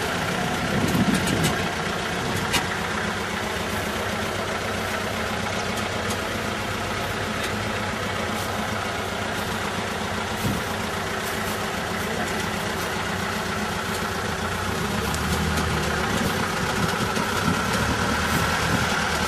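Vehicle engine idling steadily, a little louder near the end.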